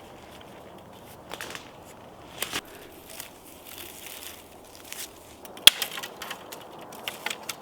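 Irregular crunching with scattered sharp snaps, the loudest snap a little past halfway.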